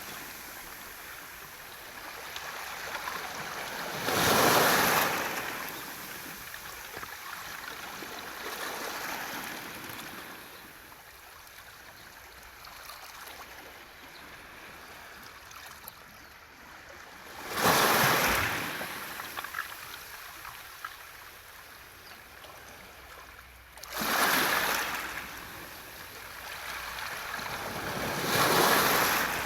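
Waves washing up a beach of smooth round pebbles (mongdol): four surges, several seconds apart, each swelling and fading. Fine clicking of pebbles rolling against each other follows the waves.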